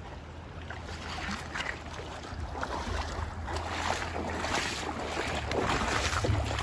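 Water splashing and sloshing in a shallow creek, with wind rumbling on the microphone.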